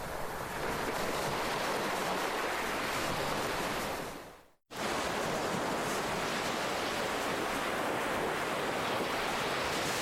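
Ocean waves washing on a shore in a steady wash of surf. A little after four seconds in, the sound fades quickly to silence for a moment and then cuts straight back in at full level, as at the splice of a looped recording.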